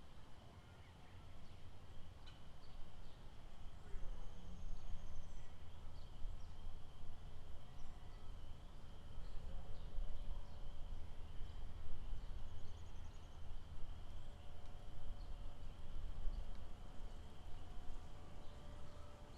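Lakeside nature ambience: a steady high insect drone with scattered faint bird chirps over a low, uneven rumble.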